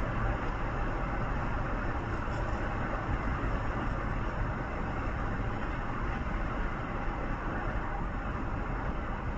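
Steady road noise of a moving vehicle: engine and tyre noise holding an even level throughout, with a low rumble.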